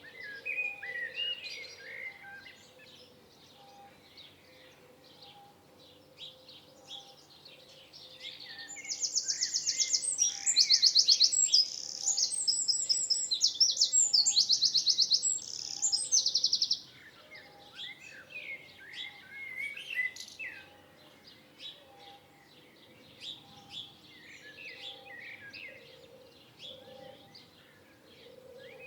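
Several wild songbirds chirping and singing. From about nine seconds in, a loud, fast, high trill of rapidly repeated notes runs for about eight seconds and then stops abruptly. A faint low note repeats steadily, a little more than once a second, underneath throughout.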